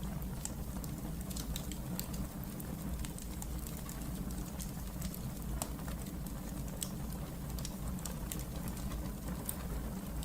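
Wood fire burning in a fireplace: frequent small crackles and sharp pops scattered irregularly over a steady low rumble of the flames.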